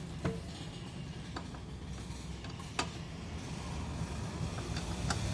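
Honda Vario 150 scooter engine running steadily, with a few sharp clicks over it.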